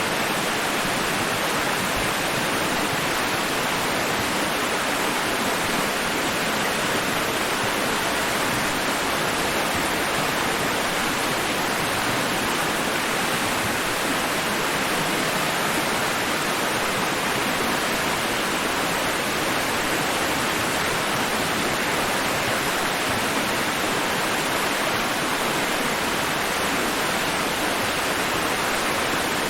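Steady white-noise hiss, even and unchanging, with no rise and fall of breaking waves.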